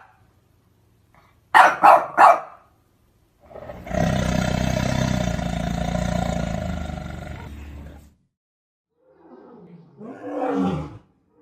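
Animal calls: three short calls, then a long low call lasting about four seconds that slowly fades, and near the end a lower call falling in pitch.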